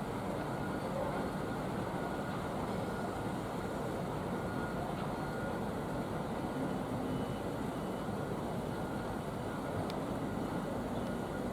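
Steady outdoor rumble of road traffic, with no distinct events.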